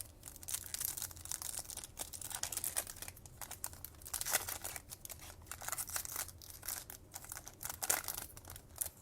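Trading-card foil pack wrappers being torn open and crinkled by hand: a run of crackling rips and rustles, with the loudest rips about four and eight seconds in.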